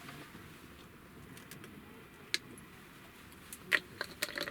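Scattered light taps and clicks, a single one a little past two seconds in and a quick cluster near the end, over faint steady background noise.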